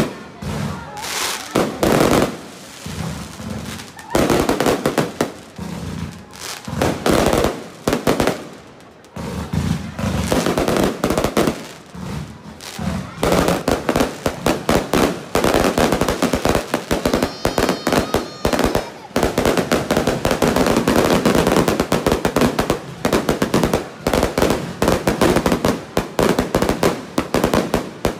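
Aerial fireworks display: a rapid barrage of shell bursts and crackling reports, coming in clusters at first and running almost without a break from about halfway through.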